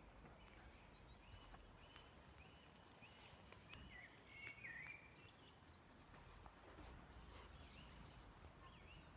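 Faint songbird song: short notes repeated evenly, with a louder warbling phrase about four to five seconds in.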